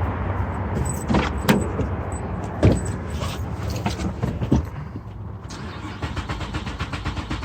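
A few sharp clicks and knocks, then a car's starter cranking the engine in a quick, even rhythm for about the last two seconds, with a new fuel pump relay fitted to cure its crank-no-start.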